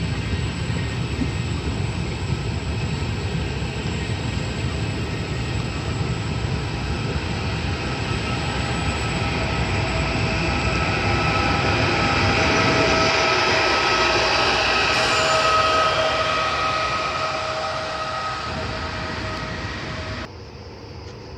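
Vivalto double-deck regional train running along the station track, a steady rumble with a whine that grows louder about two-thirds of the way through and then fades. The sound drops off suddenly near the end.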